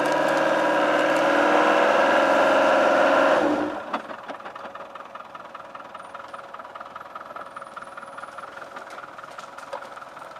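Land Rover off-roader's engine working hard at high revs as it climbs a steep bank, then dropping back to a steady idle about three and a half seconds in.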